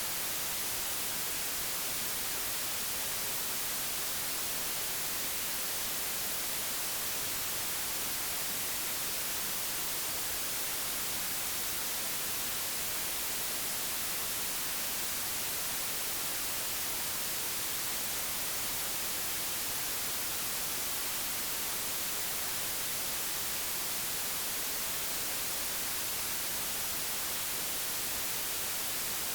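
Steady, unchanging digitally generated white noise: an even hiss.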